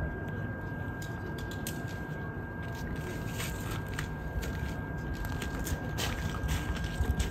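Steady low outdoor rumble with a faint steady high tone and scattered short, sharp clicks.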